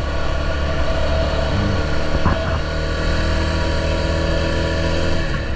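Honda XR650L's single-cylinder four-stroke engine running at a steady cruise, with heavy wind rumble. Its pitch drops near the end as the revs fall.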